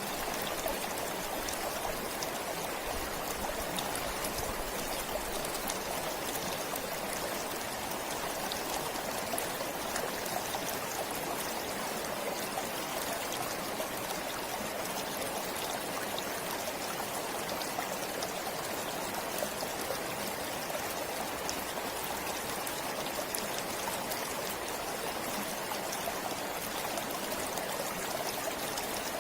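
Forest stream flowing steadily over stones, a continuous rushing with fine trickling and splashing.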